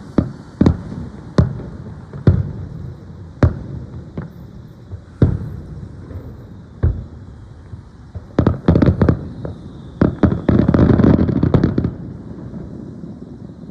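Aerial fireworks bursting: single bangs a second or two apart, then a quick run of bangs about eight seconds in and a dense crackle from about ten to twelve seconds in that dies away.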